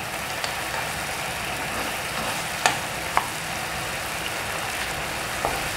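Blended green chili sambal paste sizzling steadily as it fries in oil in a nonstick frying pan. About halfway through, a utensil taps the pan twice, half a second apart.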